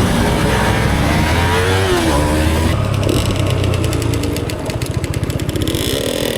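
Motorcycle engine running, with some rising and falling revs, then settling about four and a half seconds in to an idle with a steady, rapid putter.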